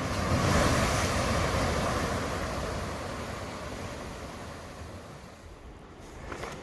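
Ocean surf: a big wave breaking on a rocky shore, swelling about half a second in and then washing away and fading over several seconds.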